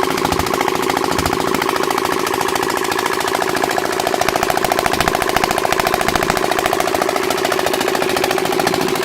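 Malkotsi 15 hp diesel engine running steadily, with a fast, even knocking beat.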